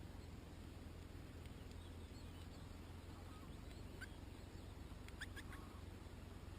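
Faint, scattered chirps of a European goldfinch: a few soft twitters, then one sharp call about four seconds in and a quick run of three or four notes a second later, over a low steady rumble.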